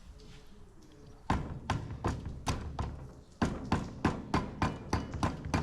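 Hammer blows. Starting about a second in, they come two or three a second, then pick up after a short break to a steady, quicker beat of about four a second.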